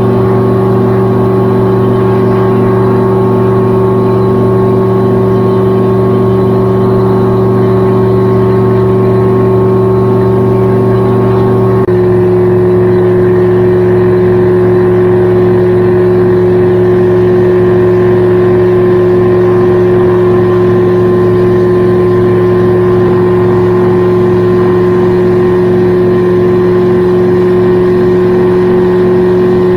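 Gyrocopter engine and propeller running steadily in flight, heard on board as a loud, constant drone. The engine note steps slightly once, about twelve seconds in.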